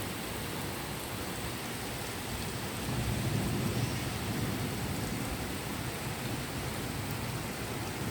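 Steady rain falling, with a low rumble rising under it about three seconds in.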